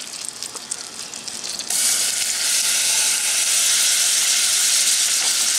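Melted butter bubbling and crackling in a stainless saucepan, then, about two seconds in, a sudden much louder steady sizzle as shrimp fry in the hot butter.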